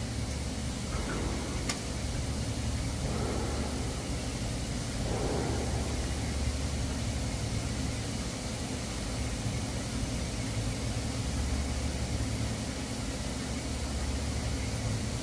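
Welding arc hissing steadily over a low, constant hum during a root pass on stainless steel with 308 filler, with one sharp click about two seconds in.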